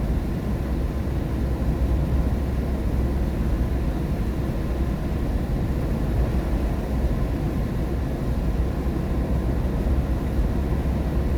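A car driving on a rain-wet highway: steady low road rumble with the hiss of tyres and rain.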